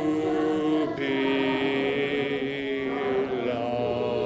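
Church congregation singing a hymn a cappella in parts, holding long notes; the chord moves to new notes about a second in and again near three and a half seconds.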